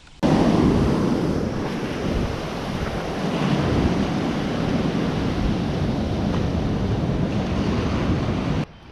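Ocean surf washing onto the beach, with wind rumbling on the microphone. The noise cuts in sharply just after the start and cuts off sharply near the end.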